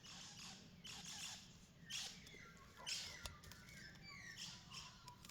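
Faint bird chirps, a few short falling notes, with soft rustles about once a second and a single click.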